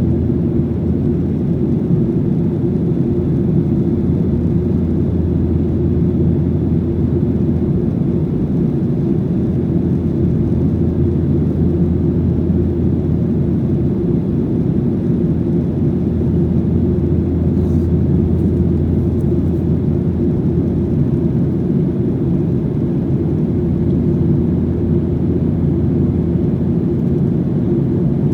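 Boeing 737-800's CFM56-7B engines heard from inside the cabin: a steady, low, even drone of engine and airflow noise.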